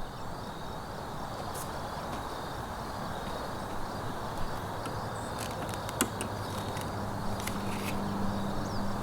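Insects chirping steadily over a low outdoor hiss, with a few sharp clicks. A low hum comes in about seven seconds in.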